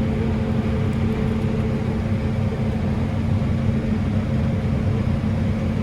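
Combine harvester running steadily while cutting wheat, heard from inside the cab: an even drone with a constant low hum.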